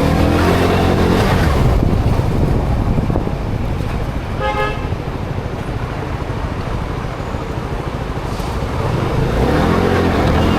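Motorcycle engine running close by, its pitch rising and falling with the throttle at the start and again near the end. A vehicle horn sounds once, briefly, about four and a half seconds in.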